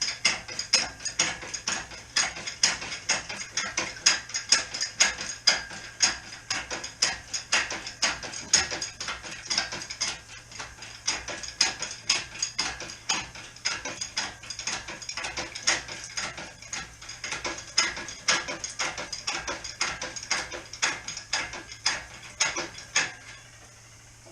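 Hand socket ratchet wrench clicking rapidly in repeated back-and-forth strokes as a bolt is turned. The clicking stops near the end.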